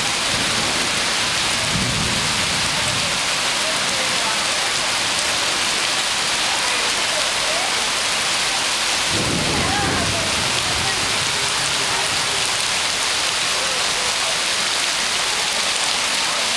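Heavy rain pouring steadily onto pavement as a dense, even hiss. Low rumbles swell up about two seconds in and again, more strongly, about nine seconds in.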